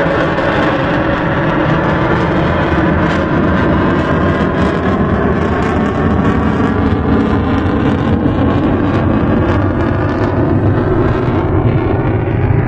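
Jet noise from a twin-engine Sukhoi Su-30MKI fighter flying a display. It is a loud, steady roar with faint tones slowly falling in pitch as the jet passes.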